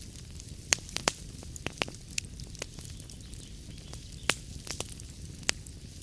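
Wood fire burning in a fireplace: a steady low rumble with irregular crackles and sharp pops, about four louder pops among many small ones.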